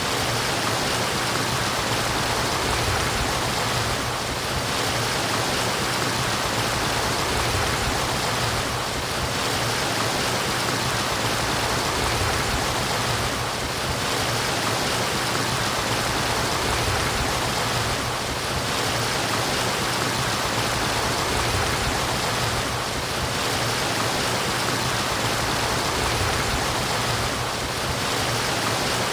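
Running water murmuring steadily, an even rushing hiss with no breaks, dipping slightly in level about every four and a half seconds.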